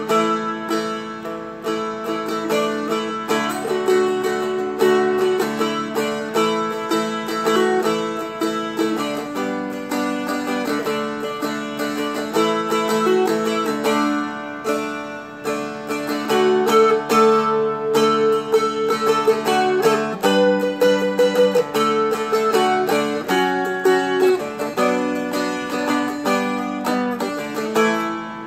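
Seagull Merlin M4, a four-string fretted dulcimer-style instrument, strummed with a pick through a slow chord progression, the chords changing every second or two over a ringing low drone.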